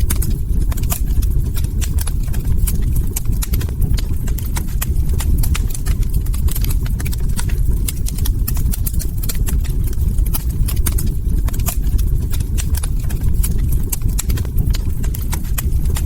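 Log fire crackling: many sharp, irregular pops and snaps over a steady low rumble of burning.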